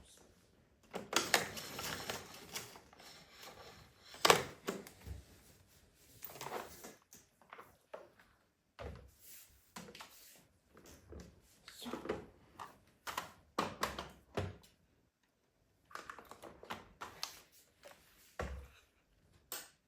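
Irregular clicks, knocks and rustling from objects being handled, with short quiet gaps between them and one sharper knock about four seconds in.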